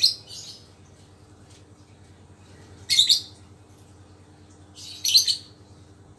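A lovebird calling in three short bursts of shrill, high-pitched chirps, about two to three seconds apart; the owner says the bird is healthy again after a bout of snot (a respiratory cold).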